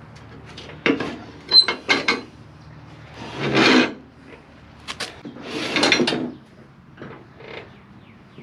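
Metal parts of a riding mower's cutting deck being handled and shifted: a few sharp knocks and clanks, and two longer scrapes about three and a half and six seconds in.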